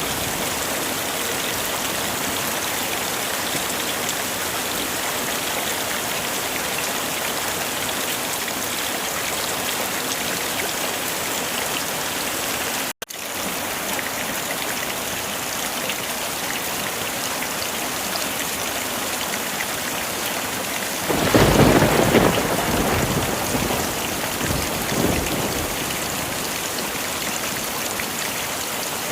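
Heavy rain falling steadily, with a low roll of thunder swelling about two-thirds of the way through and a smaller rumble a few seconds after. The sound cuts out for an instant near the middle.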